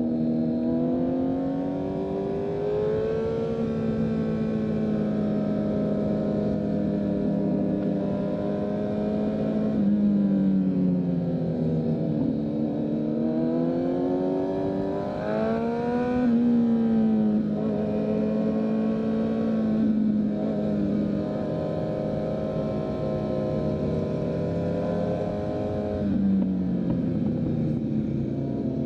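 2023 Kawasaki Z900's inline-four engine through a full Leo Vince exhaust, running at a steady cruise. Its note falls and climbs back up about ten, fifteen and twenty-six seconds in.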